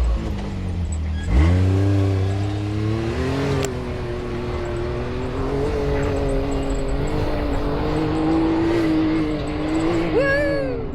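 Off-road vehicle engine crawling over rocks: the revs climb sharply about a second and a half in, hold at a low steady pull with small rises and dips, then jump briefly near the end.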